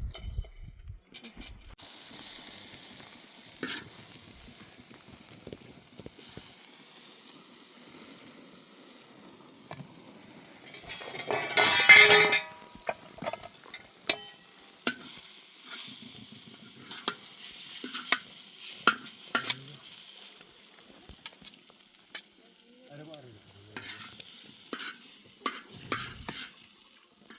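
Food sizzling and frying in a pan, stirred and scraped with a utensil, with frequent clinks. About twelve seconds in comes a louder, ringing burst of sizzle and metal.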